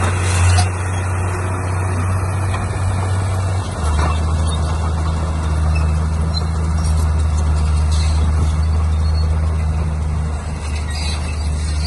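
Heavy diesel engine of an earthmoving machine running steadily, its note shifting about four seconds in.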